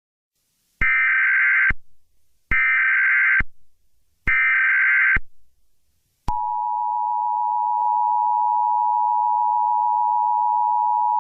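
Emergency Alert System broadcast tones: three short bursts of harsh digital data chirps, then, about six seconds in, the steady two-tone attention signal starts and holds.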